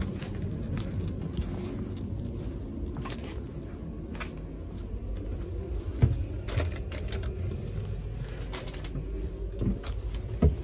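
Steady low rumble inside a passenger train carriage, with scattered light clicks and knocks and one sharper thump about six seconds in.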